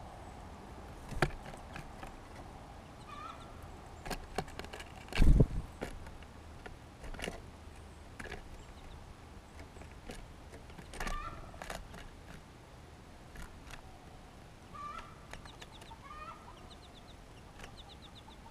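Small songbirds calling in short, quickly repeated high notes, about three seconds in and again near the end, among scattered knocks and taps, the loudest a thump about five seconds in.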